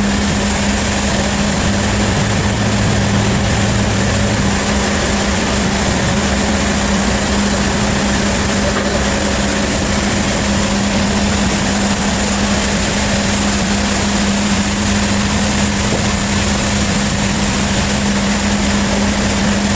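Sawmill machinery running at a steady pace, with a constant low engine hum over a dense, even noise.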